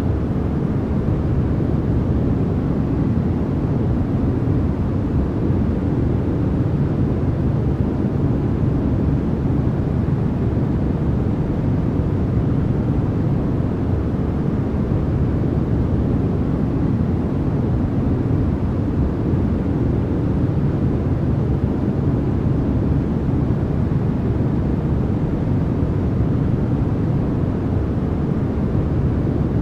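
Continuous sleep-noise track sold as white noise: an even, unbroken hiss that is weighted heavily toward the low end, so it sounds like a deep rumbling hiss rather than a bright one.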